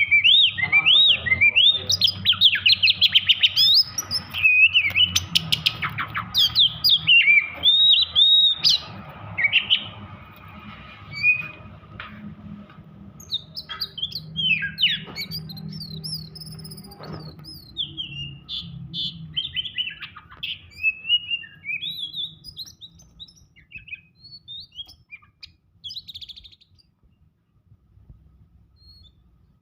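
Oriental magpie-robin (kacer) singing in an agitated, aggressive state: a fast, dense string of sharp whistles and chattering notes. The song thins out to sparser phrases after about ten seconds and dies away near the end.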